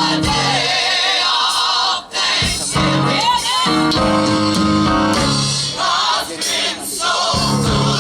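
Live gospel music: a choir of voices singing with band accompaniment, bass notes and cymbals.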